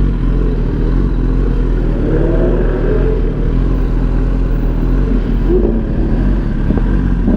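A motor vehicle's engine running steadily, a loud low rumble with no breaks.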